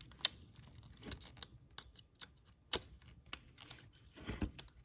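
Scattered sharp clicks and light taps: parts and tools being handled. Three loud clicks stand out, with a dull knock near the end.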